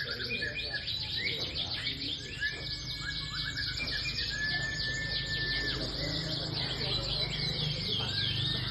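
Domestic canaries singing: fast, dense trills and chirps, with a long steady whistled note about halfway through.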